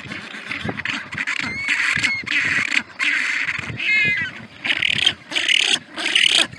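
Animal calls: short, high, gliding chirps over a steady hiss, with choppy bursts of sound broken by brief gaps.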